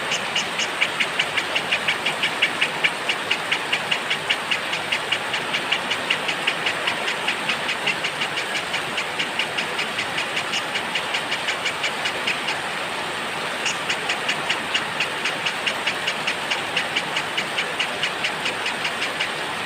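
Steady rain hissing, under a small bird calling a fast run of repeated high notes at about four or five a second, which breaks off about two-thirds of the way in and starts again a second later.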